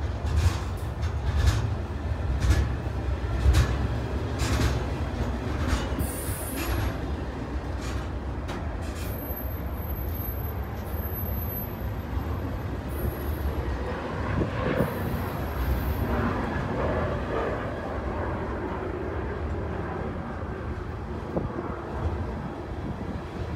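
Freight train of loaded centerbeam lumber flatcars rolling past slowly: a steady low rumble of steel wheels on rail, with a clack about once a second over the first several seconds as the wheels cross rail joints. Brief high-pitched wheel squeals come in around the middle.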